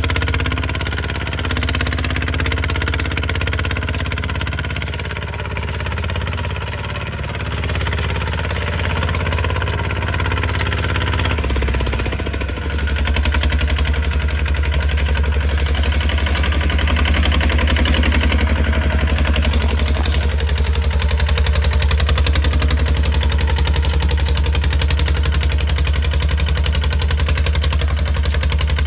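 Kubota RT155 single-cylinder diesel engine of a tractor running steadily with a rapid chugging beat. About eleven seconds in the engine note shifts, then runs on evenly.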